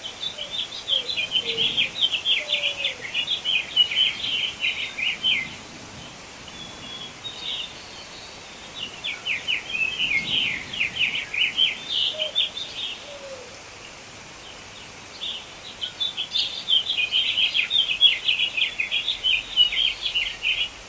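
Songbird singing in three long bouts of rapid chattering chirps, each about four to five seconds long, with pauses of a few seconds between.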